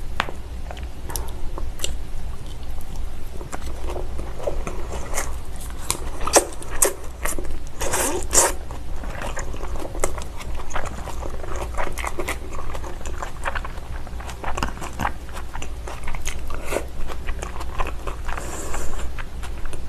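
Close-miked chewing of raw salmon sashimi wrapped around sliced onion and radish sprouts: wet mouth sounds with scattered crisp crunches, loudest about six to eight seconds in.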